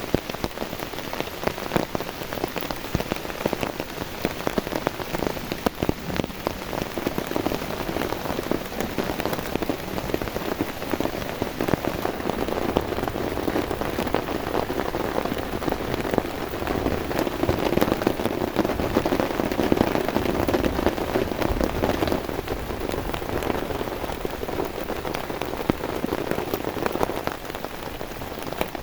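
Heavy rain falling steadily, a dense patter of drops striking a nearby surface, growing a little louder past the middle.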